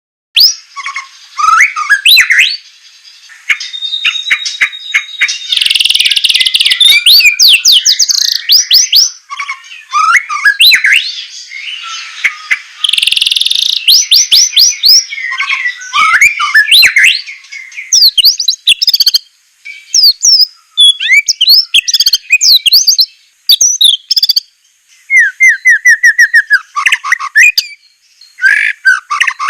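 White-rumped shama (murai batu) singing a loud, varied song of quick rising and falling whistles, fast runs of sharp repeated notes and an occasional held note, broken by short pauses. The song starts about half a second in.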